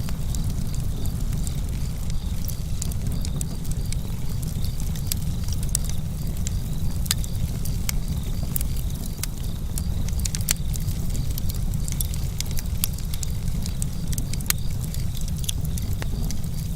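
Campfire crackling: frequent, irregular sharp pops and snaps over a steady low rumble of the burning wood.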